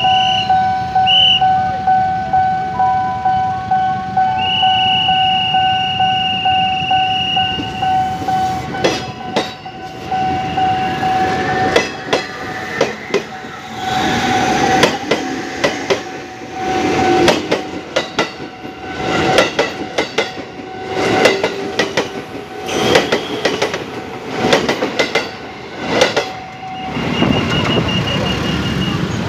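Old KRL electric commuter train running, with a steady tonal hum at first. From about eight seconds in, the wheels click and knock irregularly over the rail joints.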